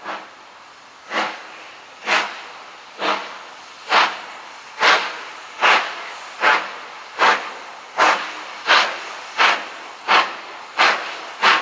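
LMS Black Five 4-6-0 steam locomotive 45212 pulling away: exhaust chuffs from its chimney, about a second apart at first and coming steadily quicker as it gathers speed, with a steady hiss of steam between beats.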